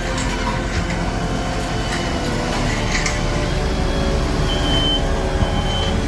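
Heavy diesel equipment running steadily, with a reversing beeper sounding in short pulses near the end.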